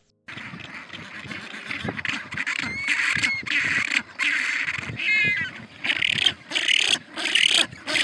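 Ducks quacking in a steady string of short, harsh calls, one after another, with a few small bird chirps in between.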